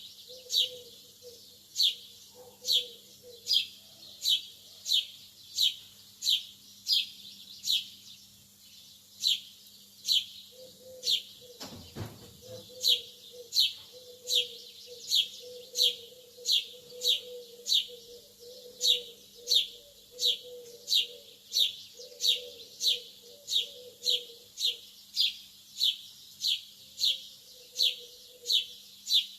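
Lovebird calling with one short, shrill chirp over and over, about two a second, each chirp dropping in pitch and evenly spaced.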